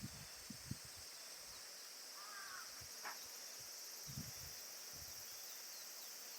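Quiet outdoor ambience: a steady high hiss, with a short bird call about two seconds in and a single sharp click soon after.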